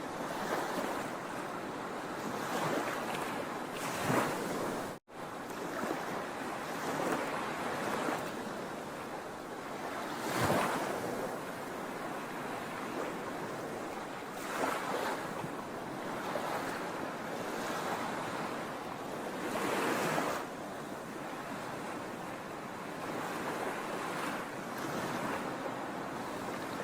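Sea waves breaking on a shore: a continuous wash of surf with louder surges every few seconds as waves come in, and a split-second dropout about five seconds in.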